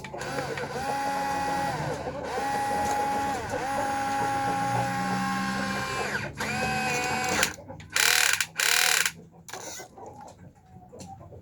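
Small electric motors of a toy excavator whining in steady stretches of about a second each, the pitch dropping as each stretch ends. About eight seconds in come two short, loud rushes of noise.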